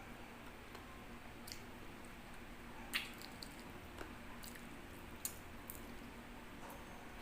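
Close-miked chewing of chicken: soft wet mouth sounds with scattered small clicks and smacks, two sharper ones about three and five seconds in.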